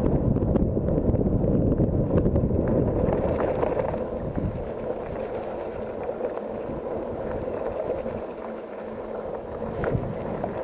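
Bicycle riding noise: tyres rolling and the bike rattling, with wind buffeting the microphone. It is loudest for the first few seconds, then eases off.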